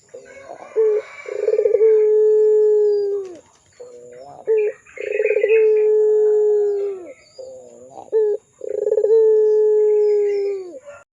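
Puter pelung dove cooing: three long drawn-out coos, each opening with a short stuttering lead-in and then held on one steady note that drops slightly as it ends.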